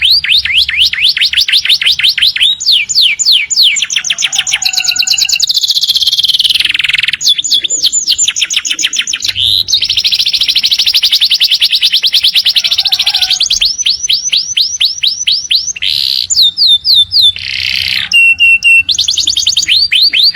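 Domestic canary singing a long unbroken song: fast runs of repeated sweeping notes, several a second, alternating with dense rolling trills.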